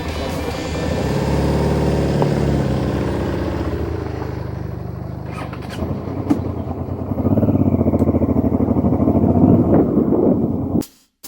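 Motorcycle engine riding on, its revs rising and easing off, then louder and pulsing under harder throttle about seven seconds in; the sound cuts off abruptly near the end.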